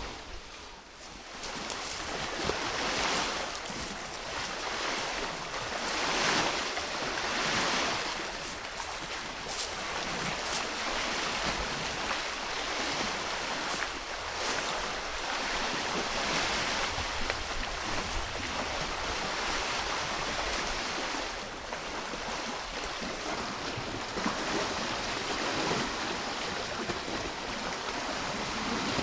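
Steady rush of water, swelling and easing every couple of seconds.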